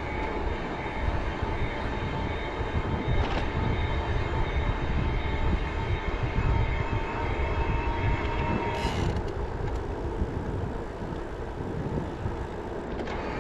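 Wind rumbling on the microphone and road noise from riding an e-bike, with a steady thin whine through most of it that stops about nine seconds in. Two brief sharp noises come at about three and nine seconds.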